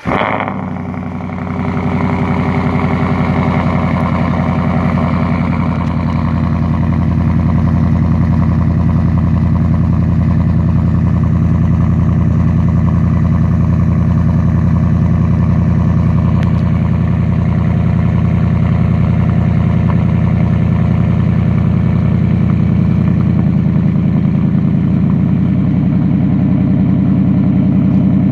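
Exhaust of a 2020 Ford F-150 with an AWE cat-back and resonator delete, just after a cold start: a brief flare right at the start, then the engine settles into a steady cold idle. The tone shifts slightly a little over twenty seconds in.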